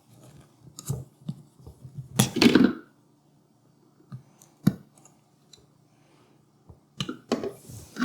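Handling noises from the vacuum tumbler marinator's hose being taken out: a few sharp plastic clicks and one short scraping rustle about two seconds in.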